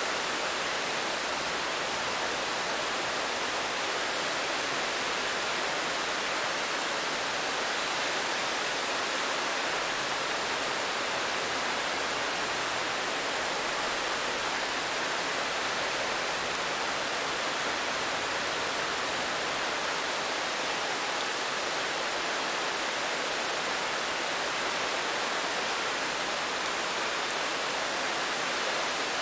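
Steady, heavy rain: a dense, even hiss with no single drops standing out.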